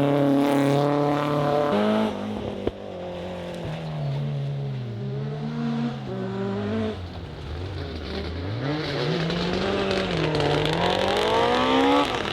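Rally car engine running at high revs, its pitch dropping sharply about two seconds in, then rising and falling several times before climbing hard near the end. A single sharp crack about three seconds in.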